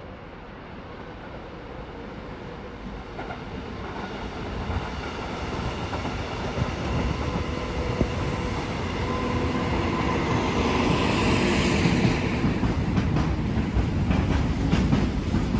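Electric locomotive hauling a container freight train approaches and passes, its steady electric whine and rumble growing louder as it nears. Then the wagons' wheels roll past, clacking over the rail joints.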